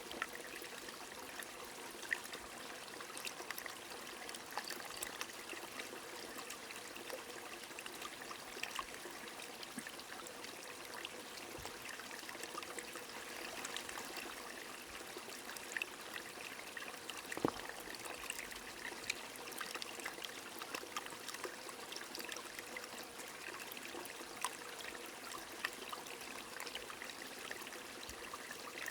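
Rain falling on a flowing stream: a steady, even water sound speckled with many small drop ticks, with a louder single tick about two-thirds of the way through.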